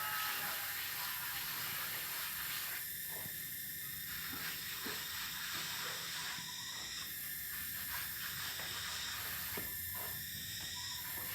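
Cicadas droning steadily, a high hissing buzz whose layers shift every few seconds.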